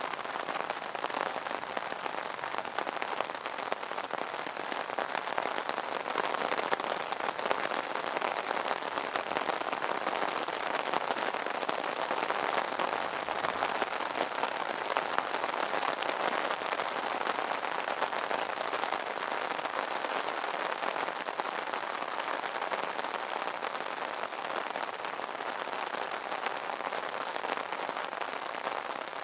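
Rain pattering steadily on an umbrella canopy, a dense, even patter of drops with no let-up.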